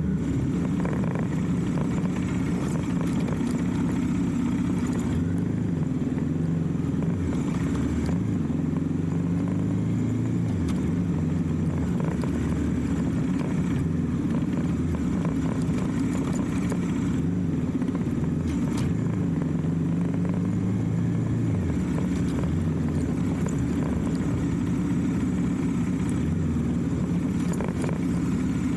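Motorcycle engine running under way, its note rising and falling with the throttle over a steady rush of road and wind noise.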